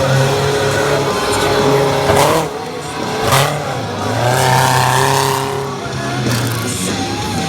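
Monster truck engine running hard, its pitch rising and falling as the driver works the throttle. Two sharp hits stand out about two and three seconds in.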